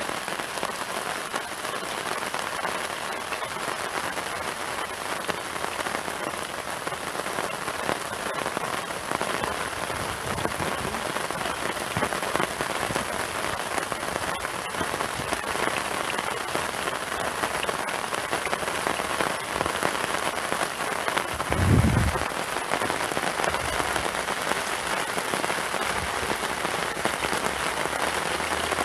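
Heavy downpour falling on a polycotton tarp, a steady dense hiss of raindrops. A single low thump about three quarters of the way through.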